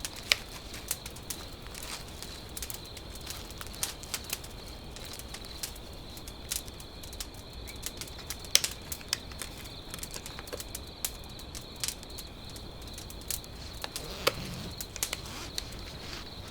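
Outdoor ambience: irregular sharp crackles and clicks over steady background noise and a faint, steady high-pitched tone.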